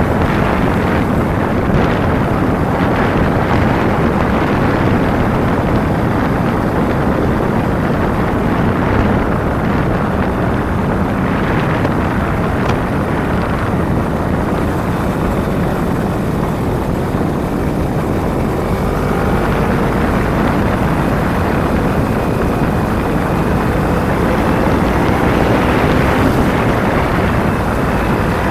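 Kawasaki Ninja 250 parallel-twin engine running at road speed, mixed with heavy wind rush on the microphone. The engine pitch rises gradually in the last third.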